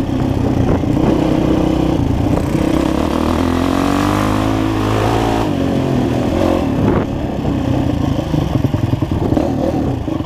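Enduro motorcycle engine running under way on a dirt trail, heard from the bike being ridden. The revs climb about three seconds in, drop briefly around the sixth second as the throttle comes off, then rise again.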